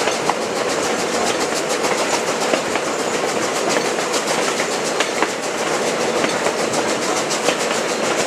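Passenger train coaches rolling along the track, heard through an open coach window: steel wheels clicking over the rails in a steady rapid run, over a continuous rumble and rush of wind.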